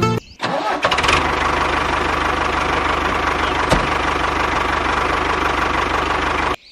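Small engine starting up about half a second in, then running steadily with a fast, even beat, and cutting off abruptly near the end.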